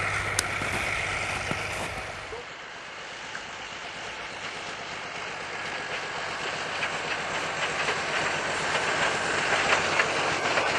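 A low steady hum stops about two seconds in. Then the running noise of a narrow-gauge train grows slowly louder, with wheel clicks over the rail joints becoming more frequent near the end.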